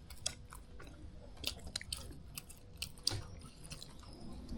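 Someone chewing food close to the microphone, with scattered small sharp clicks of eating at the table.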